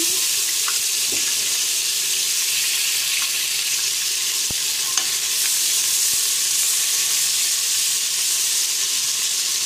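Ginger-garlic paste frying in hot oil in an aluminium pot: a steady sizzle, with a couple of faint clicks.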